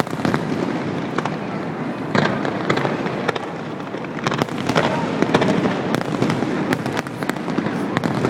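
Fireworks display going off: a rapid run of sharp bangs and crackles over a continuous rumbling haze, thickest about two seconds in and again from about four seconds on.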